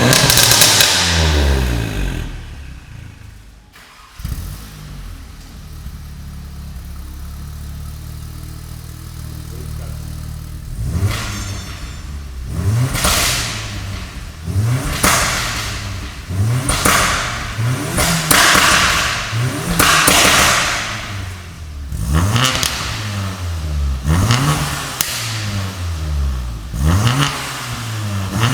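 Tuned Skoda Octavia vRS four-cylinder turbo petrol engine revved through an aftermarket downpipe and exhaust. A rev dies away, the engine fires up again about four seconds in and idles steadily, then from about eleven seconds it is blipped in quick revs every one and a half to two seconds, with crackles on the overrun.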